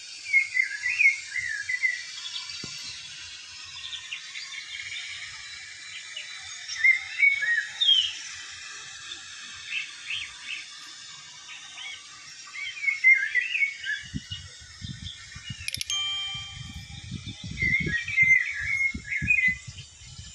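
Birds chirping in short, quick twittering phrases that come in bunches every few seconds. A low rumble joins in for the last third.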